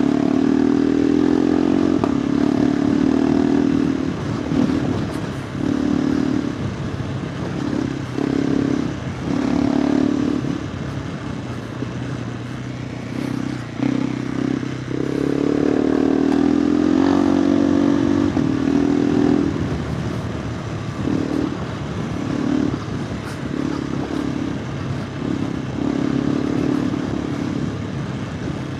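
KTM 390 Adventure R's single-cylinder engine being ridden through a Norifumi Whoops slip-on exhaust. The note comes and goes as the throttle is opened and shut in short bursts, with one longer pull about halfway through whose pitch rises.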